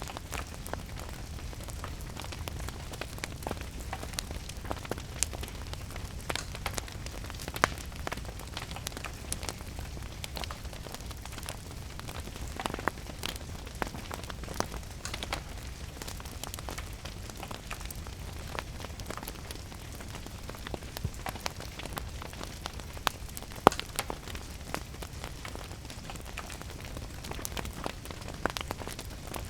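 Steady rain with a low rumble, mixed with a crackling wood fire whose sharp pops and snaps come irregularly throughout, the loudest about 8 and 24 seconds in.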